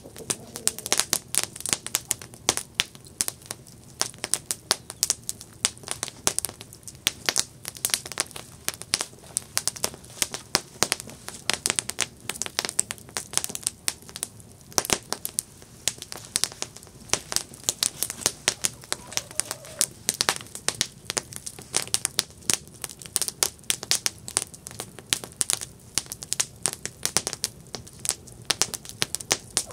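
Wood campfire crackling and popping: dense, irregular sharp snaps over a low steady hiss of burning.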